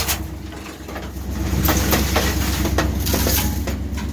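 Truck driving through woods: the engine runs with a steady low drone while brush and branches crackle and snap under and against the body. The level dips briefly under a second in, then picks up again.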